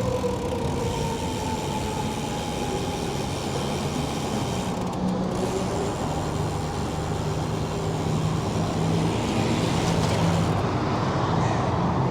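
Steady traffic and road noise heard while riding a bicycle, with a passing vehicle's whine falling slowly in pitch over several seconds, and a low steady hum.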